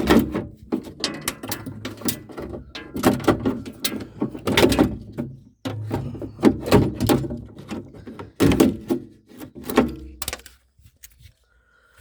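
Volkswagen Touran door lock and latch clunking and clicking repeatedly as the door mechanism is worked, a rapid run of knocks that stops about ten and a half seconds in.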